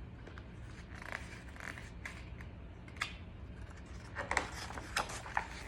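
Soft paper rustling and handling noises from a book's page being turned, with a brief click about three seconds in.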